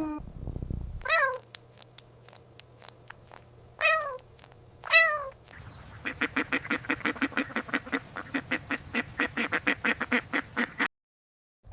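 Animal calls: three short calls that fall in pitch, then a fast run of repeated calls, about five or six a second, that stops suddenly near the end.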